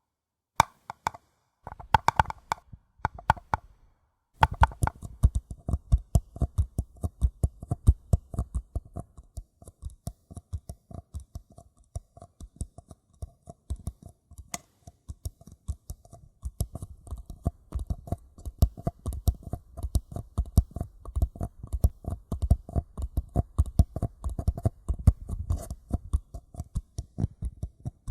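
A paper cup tapped gently: a few separate, ringing taps, then from about four seconds in a fast, continuous run of light taps.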